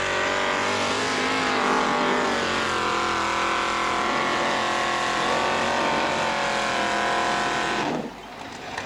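Tractor engine running steadily with a dense, buzzing set of tones, its pitch sagging slightly about three seconds in, then cutting off suddenly near the end.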